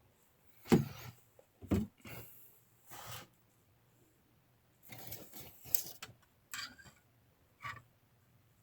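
Scattered handling noises while checking the engine oil level: a couple of sharp knocks about a second in, then rubbing and scraping, and a few light clicks near the end.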